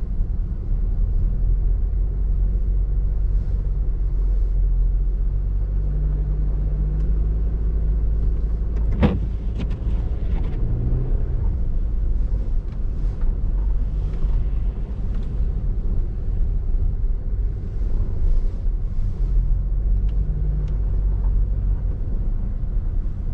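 Car driving on snowy roads: a steady low engine and tyre rumble, heard from inside the car. There is one sharp knock about nine seconds in.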